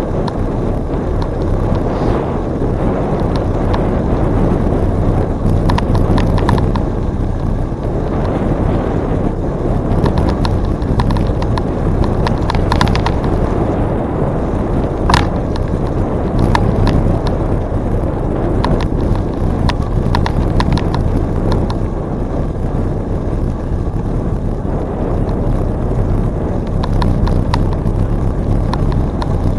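Bicycle riding on a trail: a steady rumble of wind on the microphone and tyres, with frequent light clicks and rattles from the bike. One short, sharp squeak or ping comes about halfway through.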